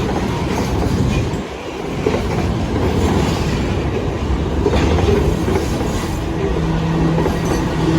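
Freight train rolling past on the rails, a continuous heavy rumble with wheels clattering over the track. Steady low tones come in near the end.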